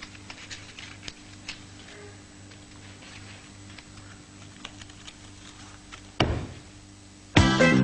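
Light scattered taps and clicks of jigsaw pieces being handled and set down, over a low steady hum. A louder knock comes about six seconds in, and music starts just before the end.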